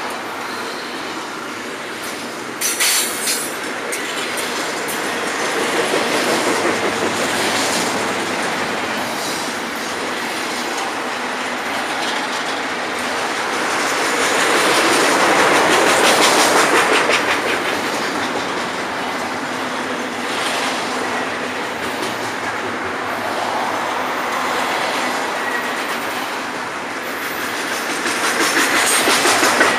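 Florida East Coast freight train cars rolling past: a steady rumble of steel wheels on rail, with clickety-clack over the rail joints and some wheel squeal. There is a short burst of sharp clatter about three seconds in.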